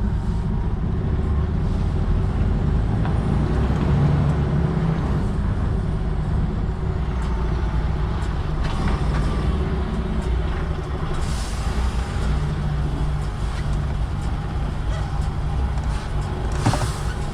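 Articulated lorry's diesel engine running, heard from the cab as it moves slowly through a lorry park, with short hisses of air from the air brakes about eleven seconds in and again near the end.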